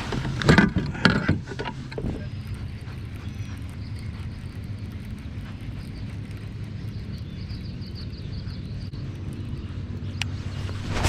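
Handling noise aboard a fishing kayak: a few sharp knocks and splashes in the first two seconds, then a steady low hum with light wind noise on the microphone.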